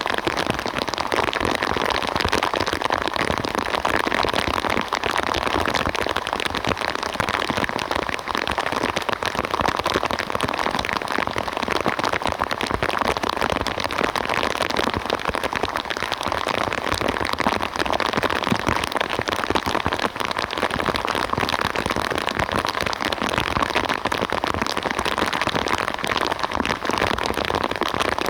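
Steady rain falling: a dense, even patter of many raindrops, unchanging in level.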